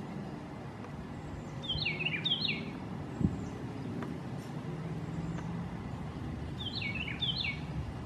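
Songbird chirping: two short bursts of quick stepped notes, about five seconds apart, over a steady low background rumble.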